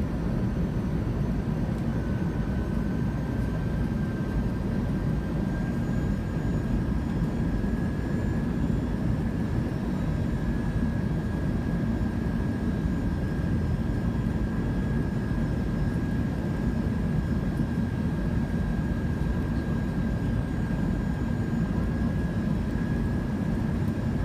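Airbus A320 heard from inside the cabin: steady engine and airflow rumble with a thin, steady high engine whine held at one pitch.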